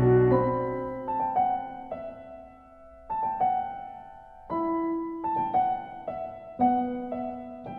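Slow, gentle solo piano music: a deep chord rings out and fades at the start, then single notes and soft chords are struck every second or two, each left to ring and die away.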